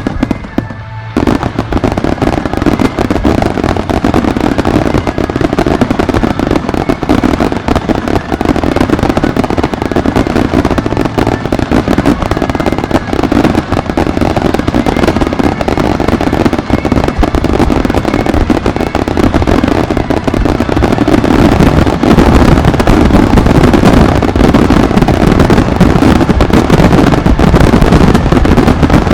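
Fireworks display: a dense, continuous barrage of exploding shells and crackle that starts suddenly about a second in and grows louder about two-thirds of the way through.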